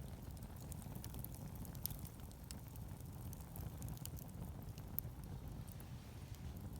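Wood fire burning, with scattered small crackles and pops over a steady low rumble.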